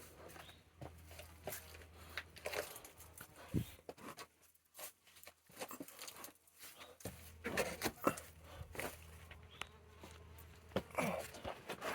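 Irregular scuffs, clicks and rustles, as of a hiker scrambling over rock and handling the recording device, over a steady low hum that cuts out for a few seconds in the middle.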